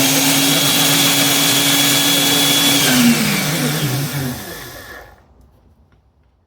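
Shopmate half-inch electric drill running at a steady high speed with a constant whine. About three seconds in it is released: the pitch drops and the motor winds down to a stop over the next two seconds.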